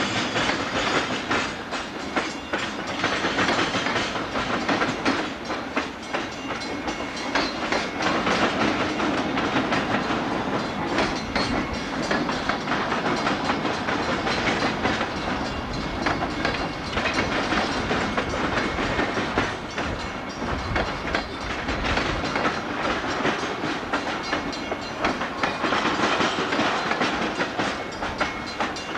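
Freight cars of a Canadian Pacific train rolling slowly across a railway diamond, their wheels keeping up a steady clatter over the crossing's gaps.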